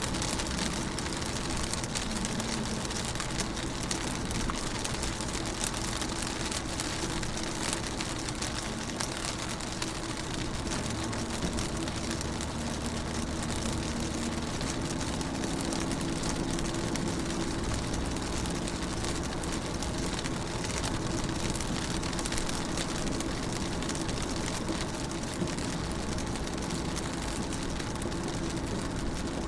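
Rain falling on a car's windows and body, heard from inside the car: a steady hiss dense with small drop ticks. A low steady hum runs underneath.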